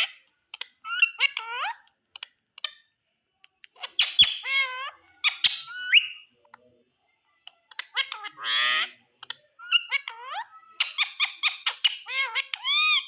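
Green Indian ringneck parrot vocalizing: a run of short, high-pitched squawks and chattering calls with gliding pitch, in clusters separated by brief pauses, the densest near the end.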